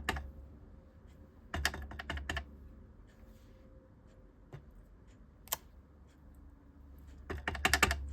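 Stamping at a craft table: quick bursts of light tapping on cardstock, one cluster about a second and a half in, a single sharp tap around five and a half seconds, and a louder cluster near the end.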